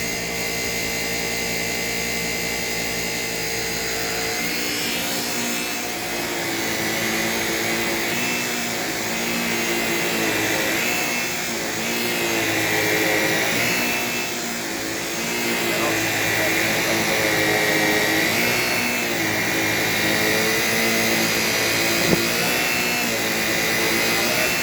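Shark Rocket self-cleaning vacuum running with a steady motor whine, which from about four seconds in wavers up and down in pitch over and over. A single short knock near the end.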